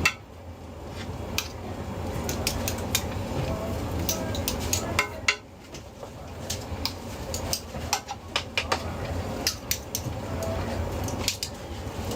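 Metal cooking utensils and dishes clinking and clattering in short, irregular knocks over a steady low hum.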